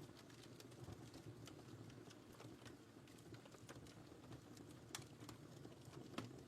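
Wood fire crackling faintly: scattered sharp pops and snaps over a low steady rush of burning logs, with a louder pop about five seconds in and another just after six.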